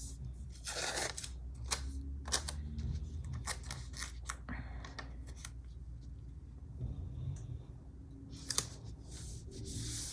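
Paper stickers and sticker sheets being handled on a desk: soft paper rustles with scattered light clicks and taps.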